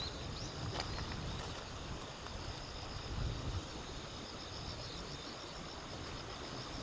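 Outdoor ambience: wind rumbling on the microphone under a steady, fast high-pitched insect chirring, with a few light clicks in the first second.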